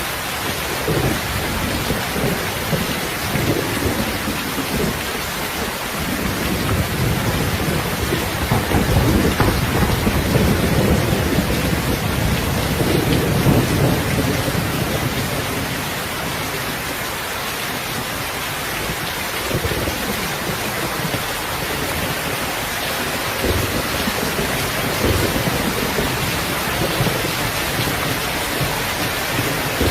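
Steady rain with low, rolling rumbles of thunder. The thunder swells over the first half, is loudest about halfway through, and rumbles again in the later part.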